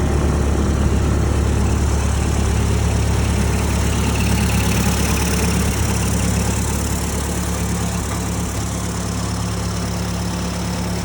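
1928 Ford Model AA truck's four-cylinder engine idling steadily, a little fainter in the second half.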